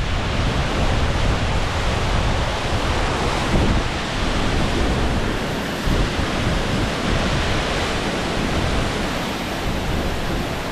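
Ozone Falls waterfall giving a steady rush of falling water, with wind buffeting the microphone in low rumbles.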